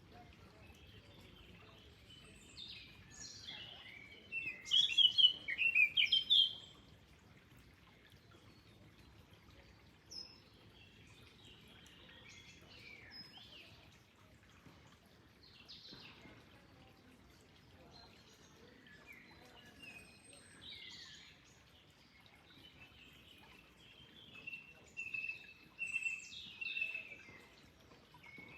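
Birds chirping and calling, with short trills scattered throughout over a faint steady rush of flowing water. There is a loud burst of calls about five seconds in and another near the end.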